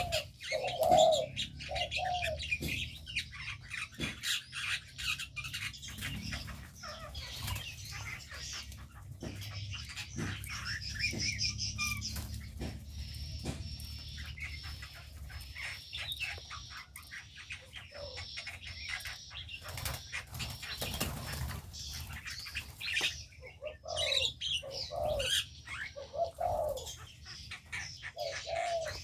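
Aviary birds: repeated wing flaps and chirping, with dove-like cooing at the start and again over the last few seconds.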